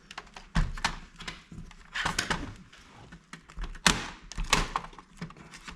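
Plastic laptop case being pried open with a plastic pry tool: a run of sharp clicks and snaps as the case's clips let go, the loudest about half a second, two seconds and four seconds in.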